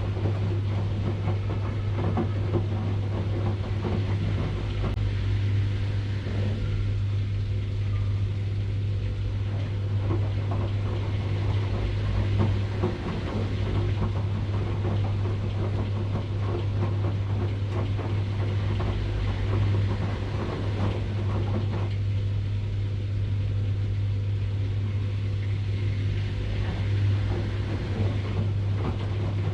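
Washing machine running, with a steady low hum and a rough churning noise over it that thins out twice, for a few seconds each time.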